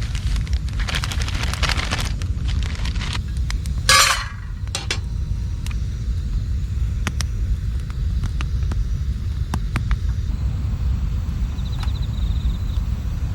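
Scattered light clinks and knocks over a steady low rumble, with one short, loud rushing burst about four seconds in.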